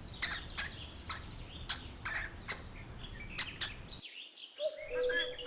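Hamster squeaking: short, high-pitched squeaks and chirps in scattered bursts, cut off abruptly about four seconds in. A fainter, steadier chirping sound with a held tone begins near the end.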